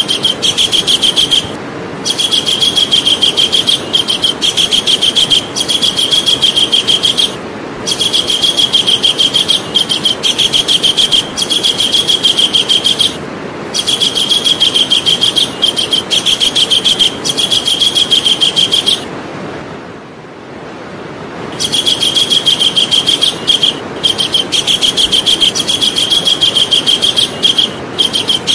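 Javan kingfisher calling: long runs of rapid, repeated high chattering notes, each run lasting several seconds, broken by short pauses and one longer pause about two-thirds of the way through.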